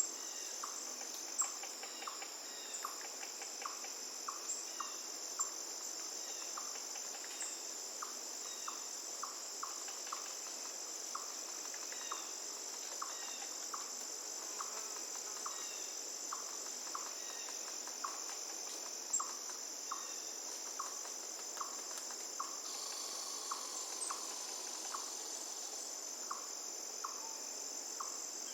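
Steady high-pitched chorus of crickets, with short chirps repeating a few times a second, over a faint wash of flowing river water.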